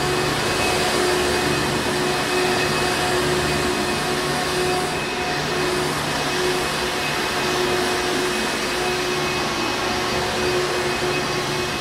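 Hoover Encore Supreme upright vacuum cleaner running steadily: a continuous rush of air with a motor hum that wavers slightly.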